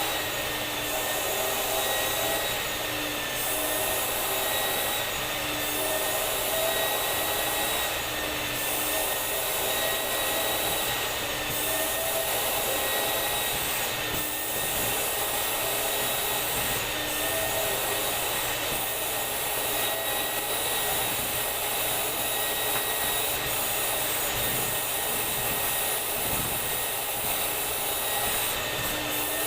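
Vacuum cleaner running steadily: a constant motor hum and rush of air with a thin whistle over it.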